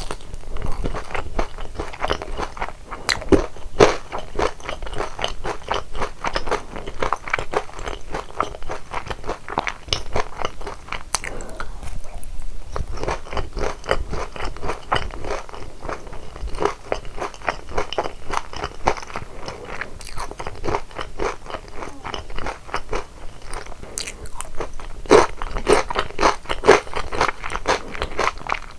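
Close-miked crunching and chewing of crispy boneless sauced fried chicken (BHC Double Pop yangnyeom chicken): a dense run of crisp bites and chews, with a short lull about twelve seconds in and louder crunching near the end.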